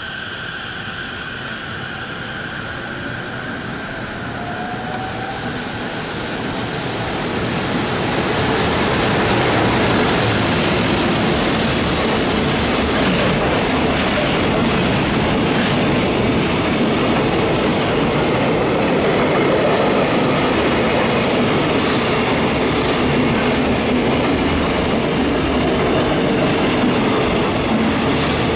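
Freight train hauled by an EF210 electric locomotive running through at speed. The sound builds over the first eight seconds or so, then settles into a steady loud rumble and clatter of the container flatcars' wheels on the rails.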